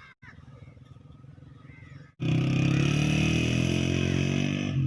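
Petter diesel engine running steadily. It is moderate at first, then much louder after an abrupt break about two seconds in.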